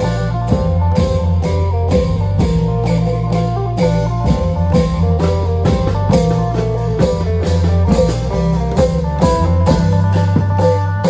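Isan klong yao long-drum band playing: drum strokes at a steady beat of about three a second, under a plucked-string melody and a held bass line.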